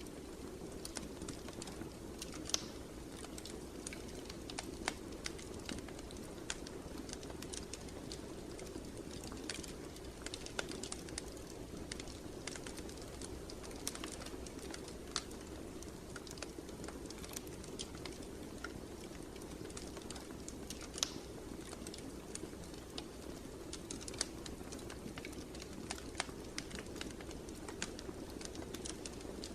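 Wood fire in a fireplace crackling: irregular sharp pops and snaps, a few louder than the rest, over a steady low rustle of the burning logs.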